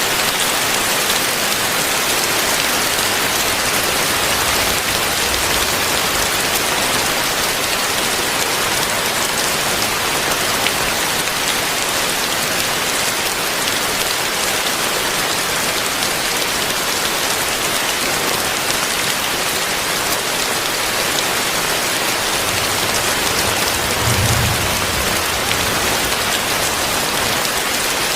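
Heavy rain falling steadily, a dense even hiss of drops on surfaces, with a brief low rumble near the end.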